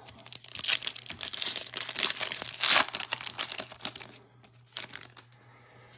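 Crinkling and tearing of a foil trading-card pack wrapper as it is ripped open. The crackling is loudest a little before three seconds in and dies away after about four seconds.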